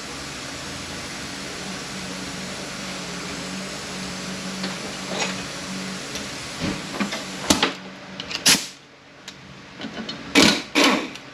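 A power ratchet runs with a steady hiss and hum for about seven seconds, backing out a 10 mm bolt on an automatic transmission. Near the end come several sharp metal clinks and knocks as parts are handled.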